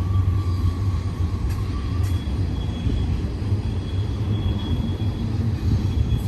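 Long BNSF double-stack intermodal train of shipping containers rolling past with a steady low rumble, and faint thin high tones from the wheels riding over it.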